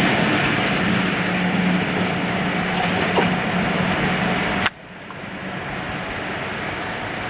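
A passing train running steadily, with a held low hum under the wheel noise. About two-thirds of the way in it cuts off abruptly and a quieter steady noise follows, slowly growing louder.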